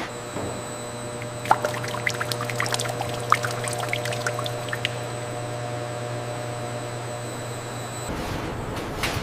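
Something pouring, with scattered light ticks from about one and a half to five seconds in, over a steady machine hum. About eight seconds in, the hum stops and a broader rushing noise takes over.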